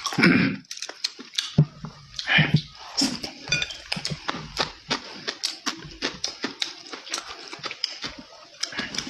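A person chewing food close to the microphone, with many quick, irregular wet smacks and mouth clicks and a brief hum-like vocal sound near the start.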